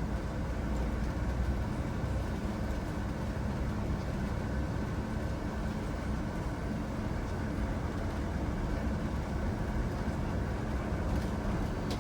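Steady engine and road rumble inside a moving vehicle, with no sudden sounds.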